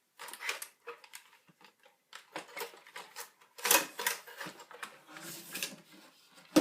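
iMac G4 casing being fitted back together by hand: irregular clicks, knocks and scraping, loudest about four seconds in.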